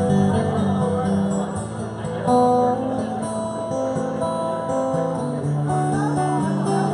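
Live band music led by acoustic guitar: an instrumental break between sung verses, with a melody of held notes over strummed chords.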